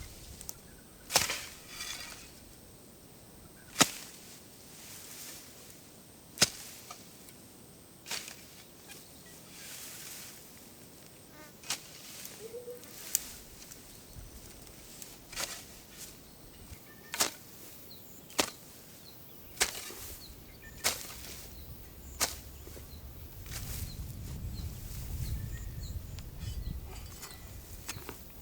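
Repeated sharp strikes, about one every one to two and a half seconds, over a faint steady high whine; a low rumble comes up near the end.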